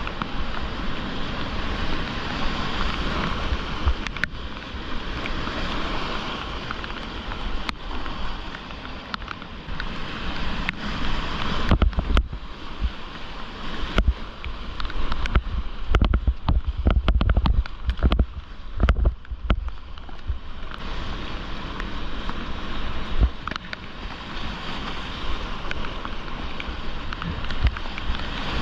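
Rushing whitewater river water heard from a kayak, a steady hiss and roar. From about 12 to 20 seconds in it is broken by a run of heavy low thumps and sharp knocks against the camera.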